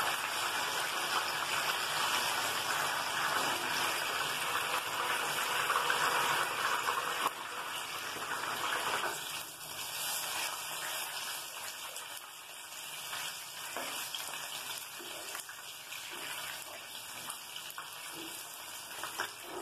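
Batter-coated lote fish (Bombay duck) deep-frying in hot oil in a pan: a steady sizzle of bubbling oil that softens about seven seconds in.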